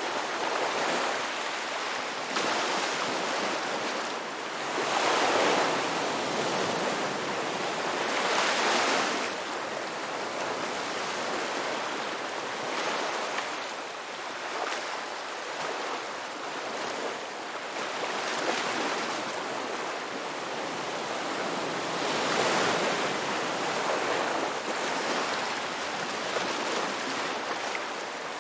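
Ocean waves breaking and washing on a rocky beach, swelling and ebbing every few seconds over a constant surf hiss, with some wind.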